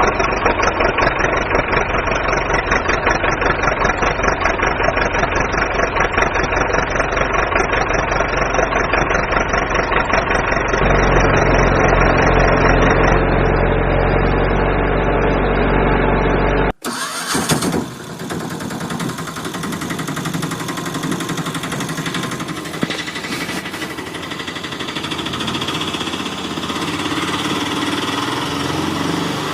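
Tractor engine running with an even, rapid firing pulse that gets heavier about eleven seconds in, then cuts off abruptly; a different, noisier stretch of engine running follows.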